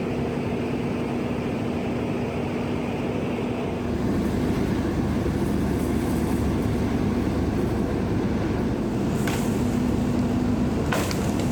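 Merlo crane's engine running steadily with a constant hum under load, getting louder about four seconds in, with a few short clicks near the end.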